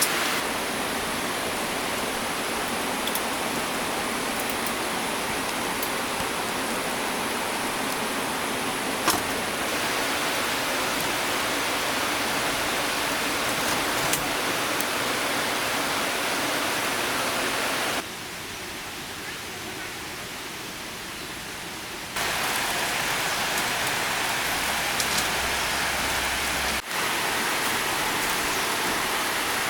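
Steady rush of flowing stream water, quieter for a few seconds in the middle, with an occasional faint knock.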